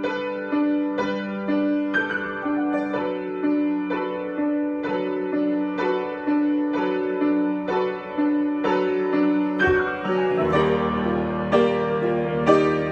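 Solo piano improvisation: notes struck in a repeating pattern about twice a second over held lower notes, turning fuller, with deeper chords, about ten seconds in.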